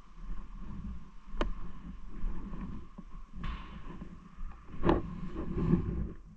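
Riding noise from a bike ride: wind rumbling on the microphone with rattling crackle, and two sharp knocks, one early and a louder one about five seconds in.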